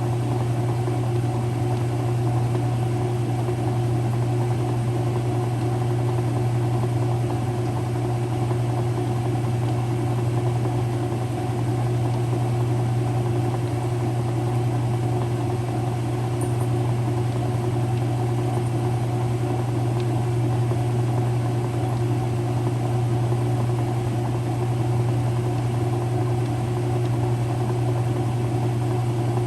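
Whirlpool direct drive washer running with a steady, even motor hum that does not change.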